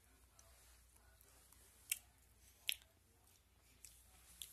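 A person chewing a bacon-flavoured dog treat in the mouth, quiet, with a few sharp clicks about two seconds in, just before three seconds and near the end.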